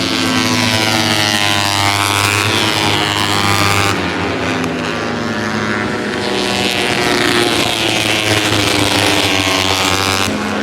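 Moto3 racing motorcycles' 250cc single-cylinder four-stroke engines at high revs, the pitch rising and falling with throttle and gear changes. Several engines overlap. The sound changes abruptly about four seconds in and again near the end.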